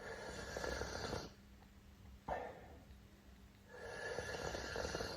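A person loudly slurping hot tea: two long, noisy slurps about three seconds apart, with a short sip between them.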